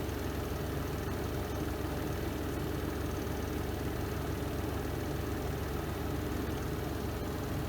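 Spin tub of a Renova semi-automatic twin-tub washing machine spinning at speed, a steady, even hum with no change in pitch or level.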